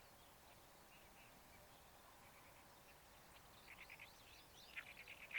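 A bird's chattering call, a quick run of short repeated notes, starting about halfway and loudest near the end, over a faint steady background hiss.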